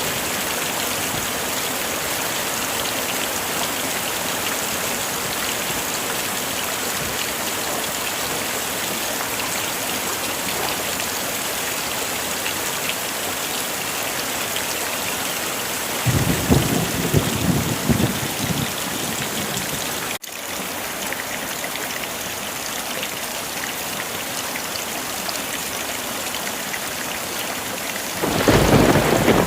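Heavy rain falling steadily, with a rumble of thunder about halfway through and another starting near the end.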